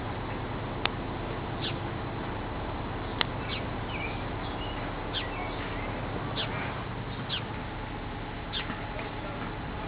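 Small birds chirping: short, high, downward-sliding calls repeated every second or so over a steady background hiss, with two sharp clicks in the first few seconds.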